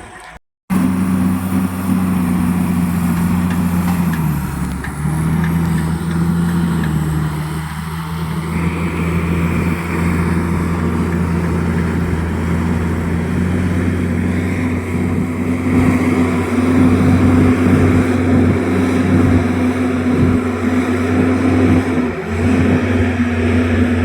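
Bulldozer's diesel engine running steadily under load, its engine speed dipping slightly and rising again a few times.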